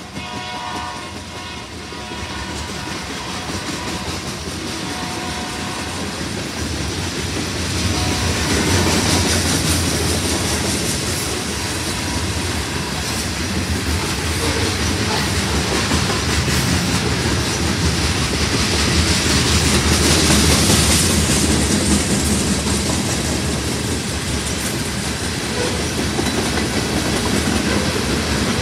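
Freight train cars rolling past: a steady rumble and clatter of wheels on the rails that grows louder about eight seconds in. A held train horn chord fades away over the first few seconds.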